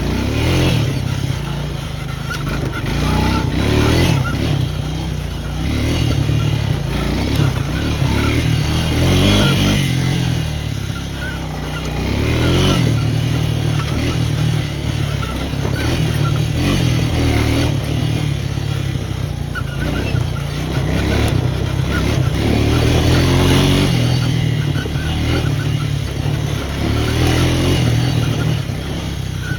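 Small off-road vehicle engine running continuously while riding a rough trail, its loudness rising and falling gently with the throttle.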